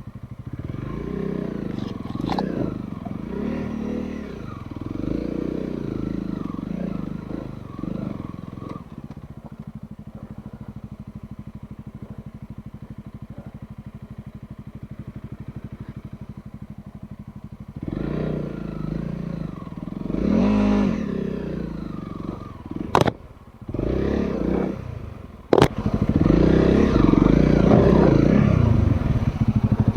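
Trail motorcycle engine working at low speed over rough ground, its revs rising and falling, with a steadier, quieter low-rev stretch in the middle. Two sharp knocks about 23 and 25 seconds in.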